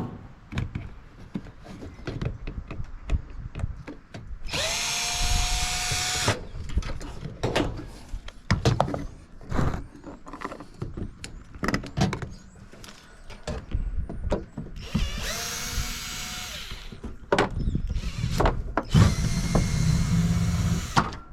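Power drill running in three bursts of a second or two each, its motor whine rising briefly as it spins up. Between the bursts there are scattered clicks and metal knocks.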